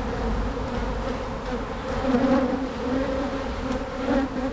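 Honeybees from an open hive buzzing in a steady, dense hum around the beekeeper as the frames are worked.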